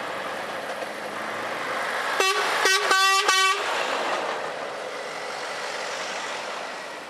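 Truck horn sounded in four quick short blasts about two seconds in, over the steady noise of trucks passing.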